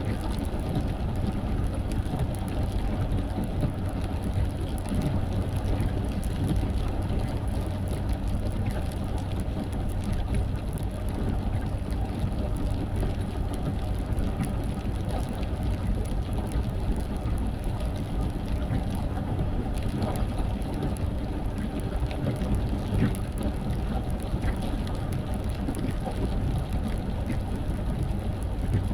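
Car driving in the rain: a steady low rumble of engine and tyres on the wet road, with scattered rain ticks.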